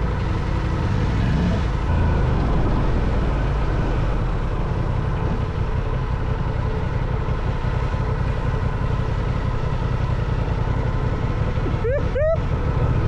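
Adventure motorcycle engine running steadily under way, a continuous low rumble.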